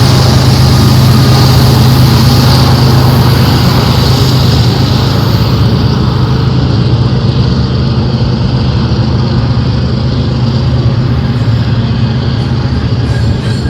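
Diesel freight train passing: a steady, loud locomotive engine drone over the rumble of the train, the hiss dropping away about halfway through as it recedes.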